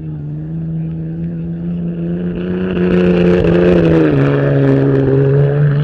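Ford Ranger rally truck's engine running hard through the course, growing louder toward the middle, with its pitch dropping about four seconds in.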